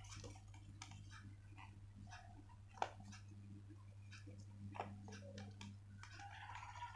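Sheets of paper being handled and folded: faint crinkles and soft clicks of creasing, with a sharper click about three seconds in, over a steady low electrical hum.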